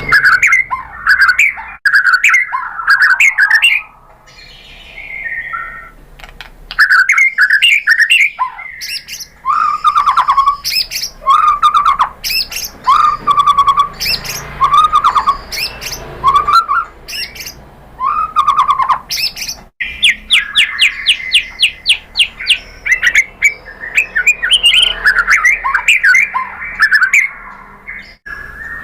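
White-rumped shama (murai batu) singing a long, varied song: loud whistled phrases mixed with sharp chattering notes, and a quick rattle of rapid ticks about two-thirds of the way through.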